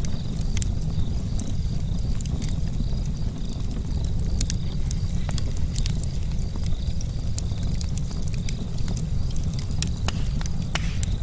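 Charcoal campfire crackling, with scattered sharp pops over a steady low rumble.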